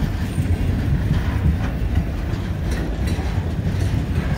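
Freight train's loaded log cars rolling past: a steady low rumble of steel wheels on rail with a few scattered clacks.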